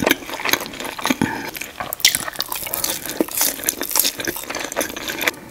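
Close-miked wet eating sounds of a mukbang: many quick, irregular sticky smacks and squelches of food with ranch dressing.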